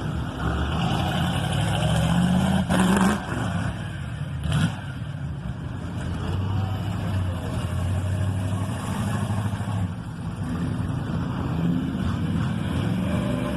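A motor vehicle engine running steadily, with a short rise in pitch about two to three seconds in, and a couple of brief knocks.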